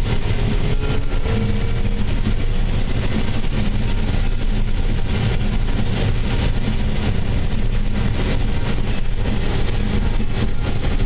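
Heavy farm machinery at corn harvest running steadily: a loud, even engine drone with a dense mechanical rush over it and no breaks.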